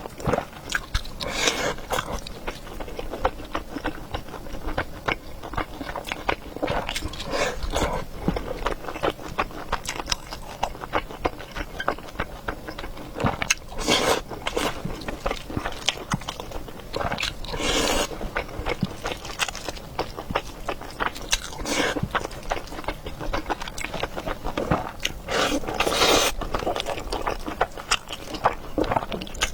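Close-miked eating of a spicy noodle and meatball meal: steady chewing and biting with many small wet mouth clicks, and a few louder bursts of eating noise every several seconds.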